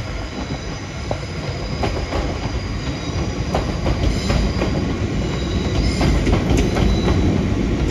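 Class 350 Desiro electric multiple unit running across the junction pointwork, its wheels clicking irregularly over rail joints and crossings with a faint high wheel squeal, getting gradually louder.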